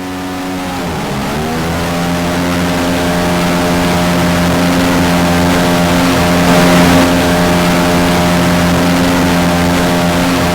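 Mini jet boat engine opening up: its note dips briefly about a second in, then climbs and holds at a steady high running pitch, growing louder over the first couple of seconds, with a rushing hiss above it.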